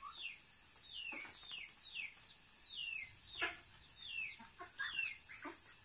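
Small birds peeping: short falling chirps, two or three a second, over a steady high hiss.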